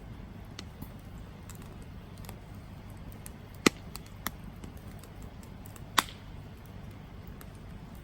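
Wood campfire burning, with a low steady rumble of the flames under scattered small crackles. Two loud sharp pops stand out in the middle, a little over two seconds apart, with a softer pop between them.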